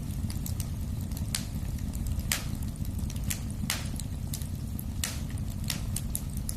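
Fire burning in a fireplace: a steady low rumble with irregular sharp crackles and pops, about one or two a second.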